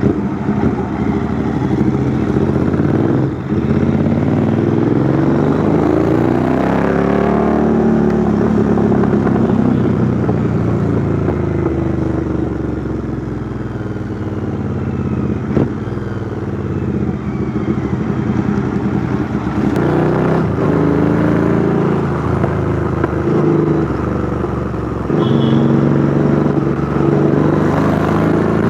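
Royal Enfield Interceptor 650's parallel-twin engine running through a custom 2-into-1 exhaust while riding. It accelerates and eases off several times, the pitch climbing and dropping back, with steadier running in between.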